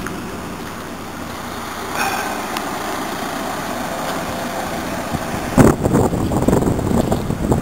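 Cummins six-cylinder turbocharged diesel engine of a portable air compressor running. About five and a half seconds in it gets clearly louder, with an uneven rumble.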